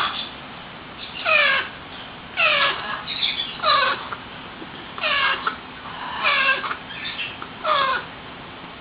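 Baby parrot crying: a string of about six loud, downward-sliding wailing calls, roughly one a second.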